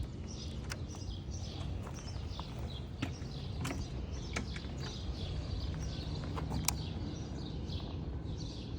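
Small birds chirping again and again over a low, steady background rumble, with a few scattered sharp clicks.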